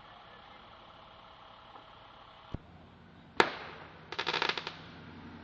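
A firework bursts with one loud, sharp bang, its echo trailing off, followed less than a second later by a quick run of crackling pops lasting about half a second.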